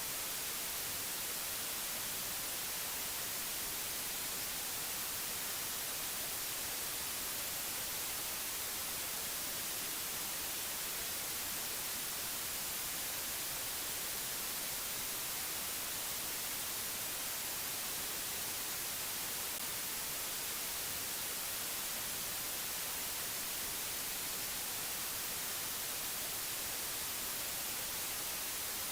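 Steady white-noise hiss, even and unchanging, brightest in the high treble.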